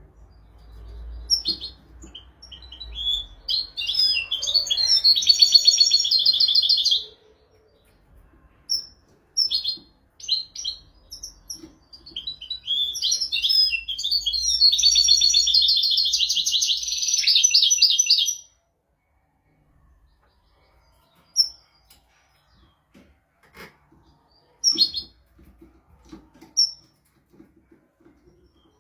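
European goldfinch singing: two long twittering song phrases, each closing with a fast trill, then a few short single call notes.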